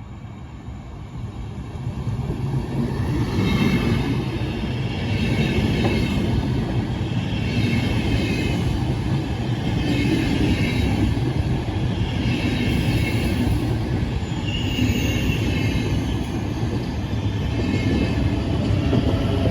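Train running along the track, getting louder over the first few seconds and then holding steady, with high wheel squeal coming and going every couple of seconds.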